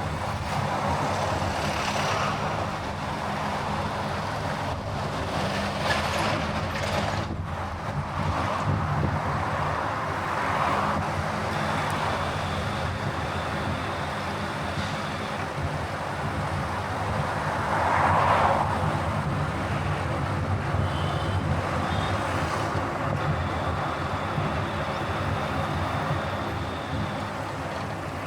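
Car driving along a highway: steady road and tyre rush with a low engine drone, swelling louder briefly about two-thirds of the way through.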